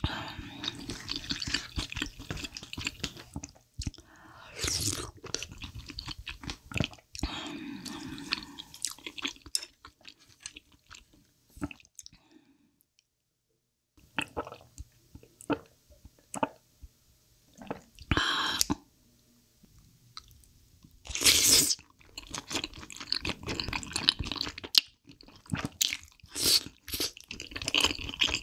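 Close-miked chewing and eating sounds of spicy chicken feet soup with glass noodles, as dense, irregular clicks and mouth noises. There is a brief silent break a little before halfway, and two longer, louder sounds in the second half.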